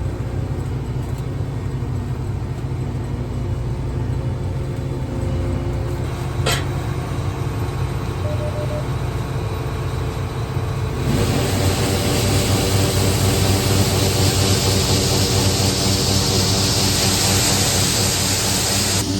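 A combine's engine running steadily, with a single sharp click about six and a half seconds in. About eleven seconds in, a loud rushing hiss sets in over the engine and holds: the unloading auger engaged to test the repaired spout.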